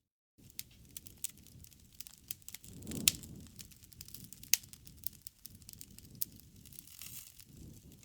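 Crackling campfire: wood snapping and popping in irregular sharp clicks over a low rumble of flames, with the loudest snaps about three and four and a half seconds in.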